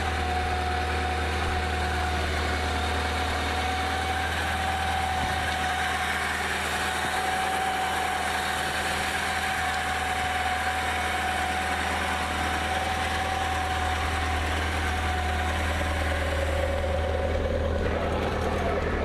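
A 1986 Porsche 924S's 2.5-litre four-cylinder engine idling steadily.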